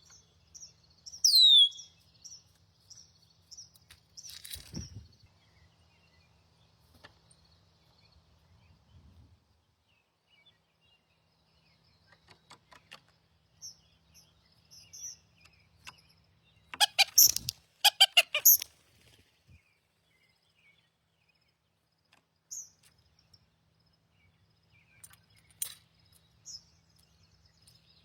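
Wild songbirds calling: a series of short high chips, a loud sharp down-slurred whistle about a second in, and a burst of loud harsh calls a little past the middle, with a single low thump around five seconds in.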